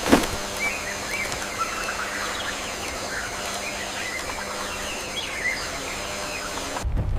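Small birds chirping over a steady outdoor hiss of a nature ambience, after a single sharp knock at the start. Near the end the ambience cuts to a low rumble.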